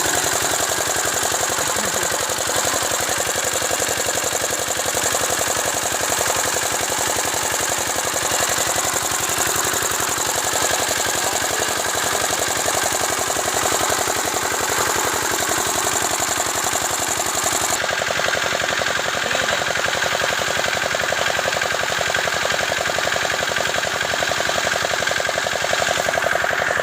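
Field Marshal single-cylinder stationary diesel engine running steadily with a fast, regular knocking beat.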